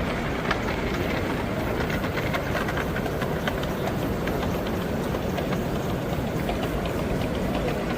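Model train running on a layout, with many small irregular clicks over the steady noise of a busy exhibition hall.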